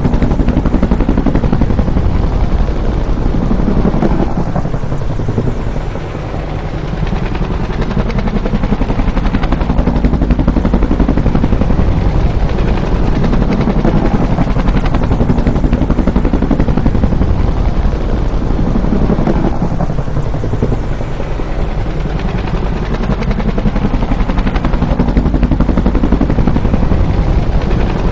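Bell UH-1 "Huey" helicopter flying by, the rapid beat of its two-bladed main rotor loud throughout. The sound swells and eases as it passes, dipping about six seconds in and again about twenty seconds in.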